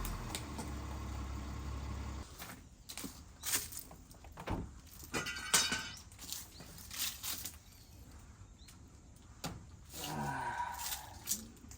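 Car engine idling, switched off about two seconds in, followed by a series of irregular knocks and clatters of wood, like cut tree logs being handled and dropped.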